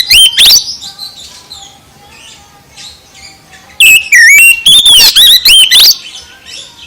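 Oriental magpie-robin (kacer) singing loud, rapid whistled phrases that sweep up and down in pitch, in a short burst at the start and a longer burst from about four to six seconds in, with softer twitters between.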